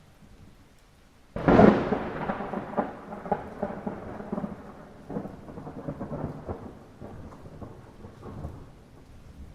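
Light rain falling, broken about a second and a half in by a thunderclap: a sudden sharp crack followed by rumbling that rolls and fades over several seconds.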